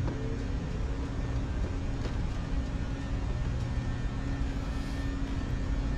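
Steady low hum and rumble with a constant tone running through it, unchanging throughout.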